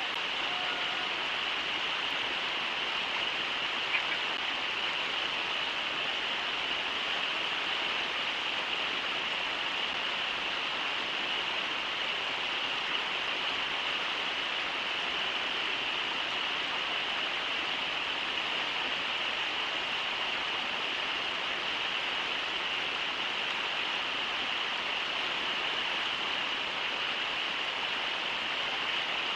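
Shallow river water rushing steadily over riffles: an even, unbroken hiss.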